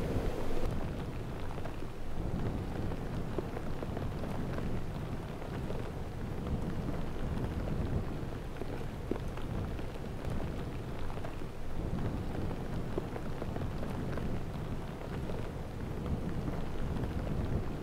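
Steady low rumbling storm noise from blizzard wind, with faint scattered ticks.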